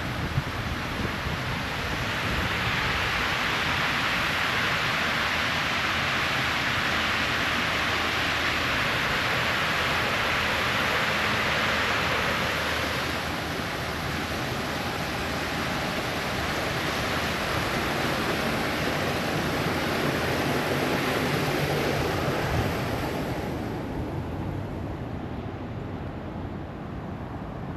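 Steady rush of water pouring over a small waterfall, louder through the first half and fading near the end.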